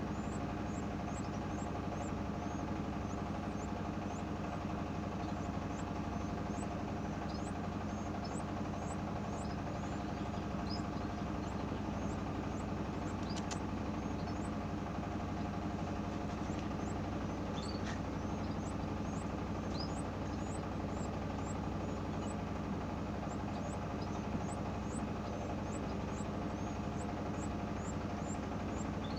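A steady machine-like hum runs throughout. Over it, small birds give many short, high rising chirps, several each second.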